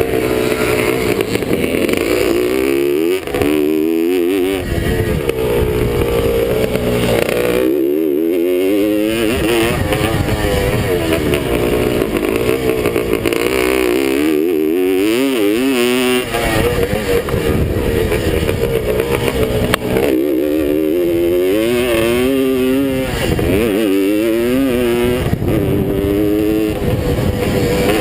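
Vintage Suzuki two-stroke motocross bike's engine, revving hard and falling back again and again as the rider accelerates, shifts and rolls off over the track, heard close up from on the bike.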